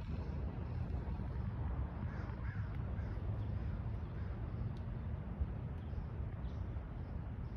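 Steady low rumble with a few faint bird calls about two seconds in.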